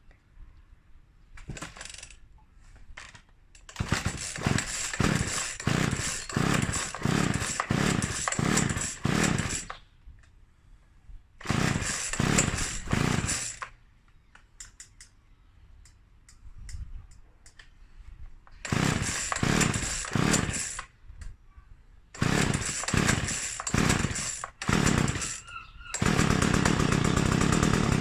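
Spear & Jackson two-stroke chainsaw being pull-started on full choke: several bursts of quick pulls on the recoil starter, about two a second, with pauses between. About two seconds before the end the engine catches and runs steadily, a sign that the fuel is now priming through to the carburettor.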